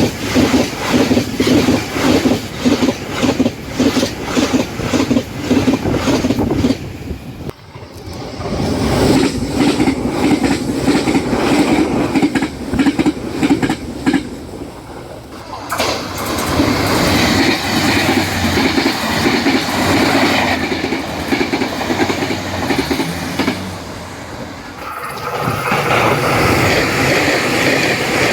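Taiwan Railway trains passing at high speed, over 100 km/h, one after another, the wheels clattering in a fast, even rhythm over fishplate-bolted rail joints. Several separate passes follow with abrupt changes between them.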